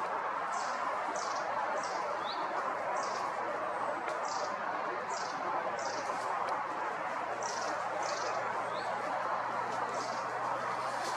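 A small bird repeating a short, high, falling note about twice a second, with a few brief rising notes in between, over a steady rushing background.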